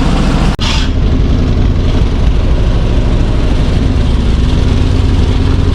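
Chevrolet C60 truck engine idling steadily with a low, even hum. It breaks off sharply about half a second in, and there is a brief hiss just after.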